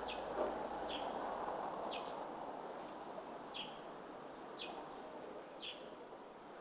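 A bird giving six short, high chirps, each falling slightly in pitch, roughly a second apart, over a steady outdoor background hiss.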